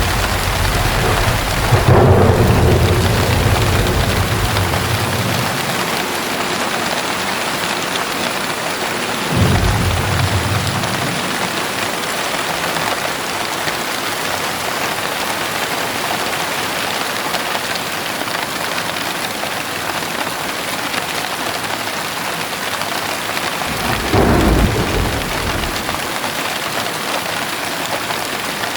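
Steady heavy rainfall with thunder: a long low rumble in the first few seconds, loudest about two seconds in, then two shorter rumbles, one about nine seconds in and one near 24 seconds.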